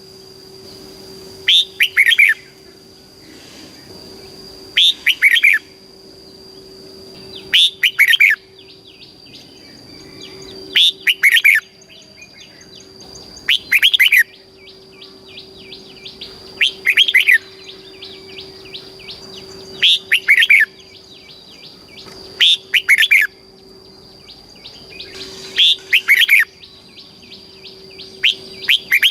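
Red-whiskered bulbul singing: about ten short song phrases repeated at a steady pace, roughly one every three seconds, over a faint steady high tone.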